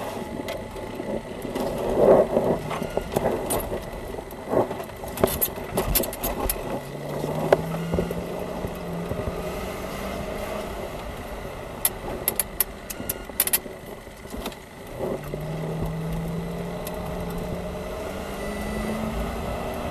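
Patrol car engine heard from inside the cabin, pulling away and speeding up twice: its note rises about seven seconds in and again about fifteen seconds in. Sharp clicks and rattles come in two clusters before each rise.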